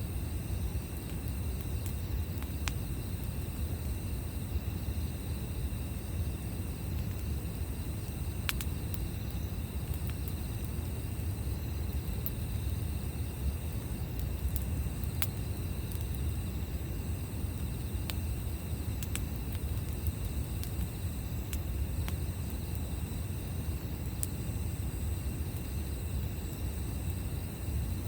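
Campfire burning, with a few sharp crackles and pops from the wood now and then, over a steady high insect trill and a low, even rumble.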